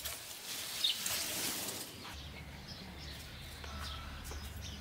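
Small birds chirping, with one brighter call about a second in. A low steady hum comes in about two seconds in.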